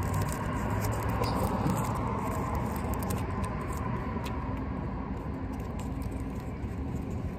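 A rubber band being stretched and worked over a watermelon: small rubbing, rustling and scattered light ticks, over a steady low background rumble.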